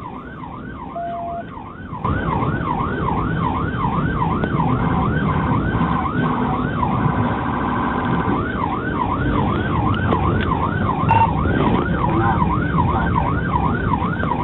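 Police car siren on a fast yelp, its pitch sweeping up and down about three times a second over vehicle engine and road rumble. The rumble gets louder about two seconds in. Around the middle the siren briefly switches to a rapid warble.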